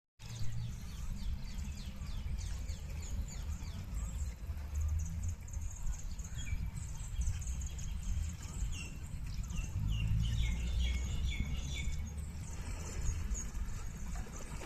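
Small birds chirping throughout, with many quick, short high calls, over a steady low rumble.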